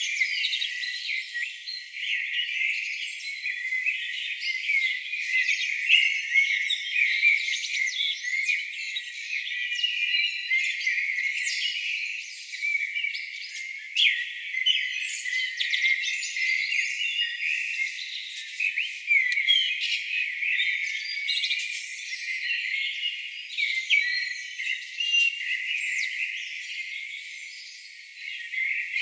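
A dense chorus of songbirds, many short chirps and trills overlapping without a break, thin-sounding with all the low end filtered away.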